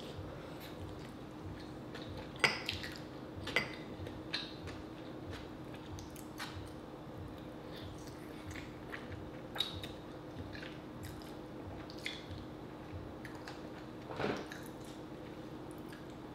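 Close-up eating of rotisserie chicken: wet chewing and biting with scattered sharp mouth clicks, the loudest about two and a half seconds in, again near three and a half seconds and near fourteen seconds, over a faint steady hum.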